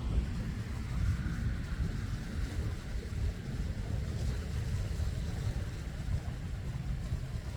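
A steady, uneven low rumbling noise with no clear tone.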